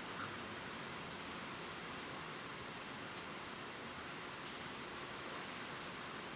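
Steady gentle rain falling on leaves, an even hiss with faint scattered drop ticks.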